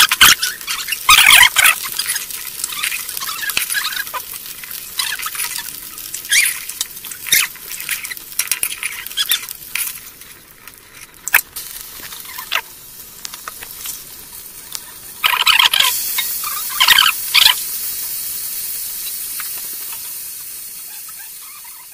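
Fish sizzling as they fry in hot oil in a wok, with a perforated metal spatula scraping and clanking against the pan as they are turned and lifted. A cluster of loud scrapes comes about three quarters of the way through, then a steady sizzle fades out.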